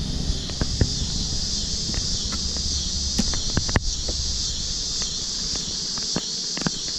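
Steady high-pitched chorus of crickets, with scattered light clicks and knocks from hive frames being handled.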